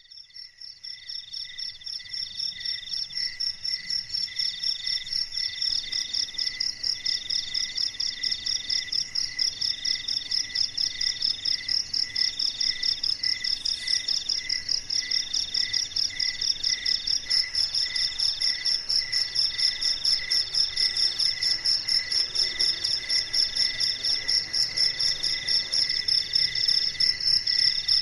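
Crickets chirping in a fast, even pulsing rhythm, several at different pitches layered together, fading in over the first few seconds.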